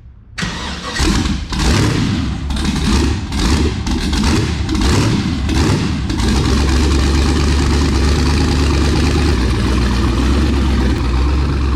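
Twin-turbo LS1 V8 of a Nissan Skyline race car starting up and being blipped in a quick series of short revs for about six seconds, then settling into a steady, rumbling idle.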